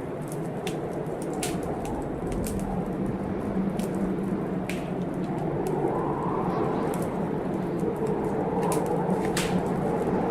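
Wood fire crackling in a fireplace, with irregular sharp pops, over the steady rush of a storm whose low moan swells about halfway through.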